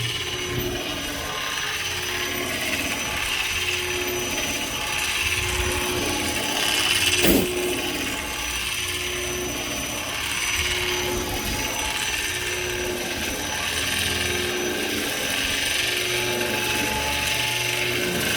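Woodworking spindle sander running steadily while wood is sanded on the spindle, the sanding hiss swelling and fading, with one sharp knock about seven seconds in.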